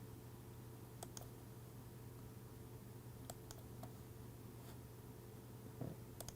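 Faint, scattered clicks, about seven over several seconds, with a slightly heavier knock near the end, over a steady low hum.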